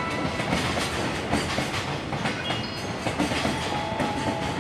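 Koki container flatcars of a freight train rolling past, their wheels clattering steadily over the rail joints with a continuous rumble and a few brief high squeaks.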